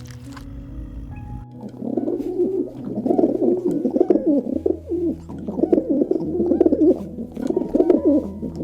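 A bird cooing in repeated low, warbling phrases, starting about a second and a half in, over a steady low music bed.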